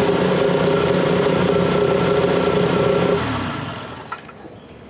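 Fox-body Ford Mustang engine idling steadily, warmed up, then switched off about three seconds in and winding down over about a second. A light click follows near the end.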